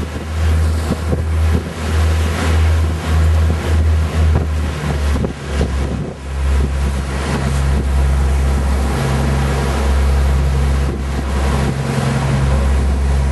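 Boat motor running while under way, with heavy wind buffeting the microphone. The rumble is gusty for the first half, then steadier with a low hum.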